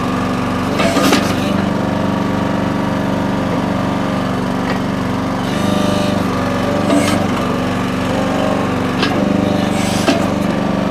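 Small gas engine of a Red Rock towable mini backhoe running steadily while it digs, with a few brief scrapes and clunks about a second in and again near the end.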